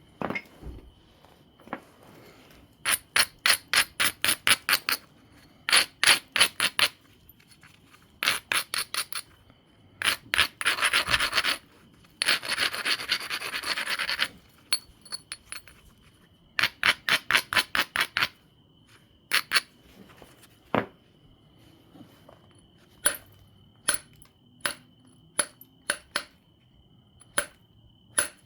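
Abrading stone rubbed quickly back and forth along the edge of an obsidian biface, grinding the platforms. It comes in bursts of about six strokes a second, with one longer stretch of continuous scraping partway through. A few sharp clicks of stone on stone follow near the end.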